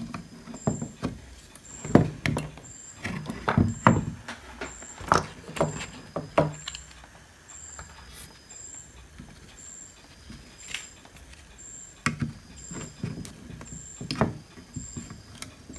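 Irregular clicks, knocks and scrapes of hand tools and metal parts being handled while a rusted home theater unit is taken apart.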